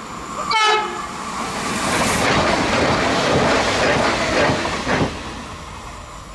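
Renfe Media Distancia passenger train giving one short horn blast about half a second in, then passing through the station at speed close by, a broad rush of wheel and air noise with a few sharp wheel knocks near the end of the pass, fading as it goes away.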